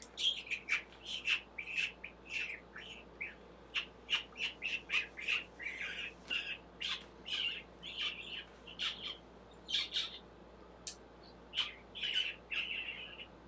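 A bird squawking and chirping in short, rapid, repeated calls, about two to three a second, mixed with sharp clicks.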